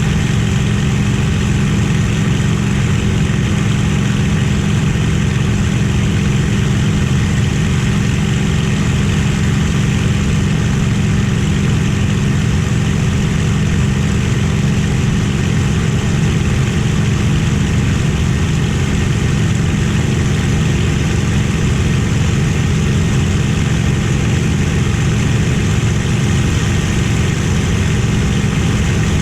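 Merlin V-12 aero engine of a WWII fighter running at steady power: a constant, unchanging drone with no rise or fall in pitch.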